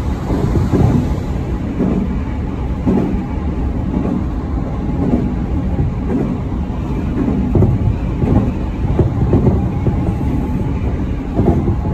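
Electric commuter train running at speed, heard from inside the carriage: a steady low rumble of wheels on rail with uneven low thuds.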